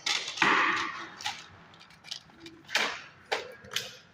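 A short noisy burst at the start, then four sharp clicks and knocks spread through the rest.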